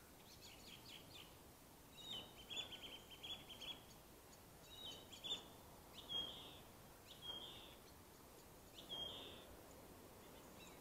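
Faint bird calls: a longer high trill about two seconds in, then single short high chirps with falling tails, about one a second, spaced out toward the end.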